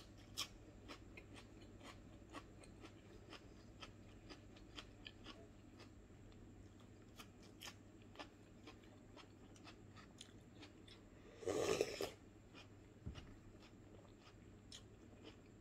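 Close-miked chewing of crunchy food, small crisp clicks and crunches scattered throughout, with a louder half-second rush of noise about eleven and a half seconds in.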